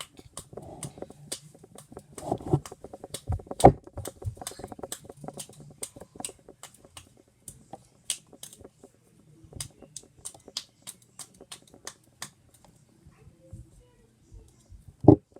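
Knife cutting and chipping at a wooden stick during whittling: an irregular run of sharp clicks and taps, with a louder knock about three and a half seconds in and another near the end.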